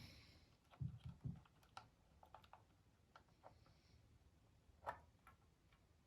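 Quiet, scattered light clicks and taps of small hard objects being handled, with a few soft thumps about a second in.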